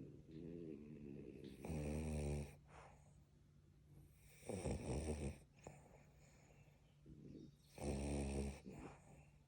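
French bulldogs snoring in their sleep: three loud snores about three seconds apart, with quieter breaths in between.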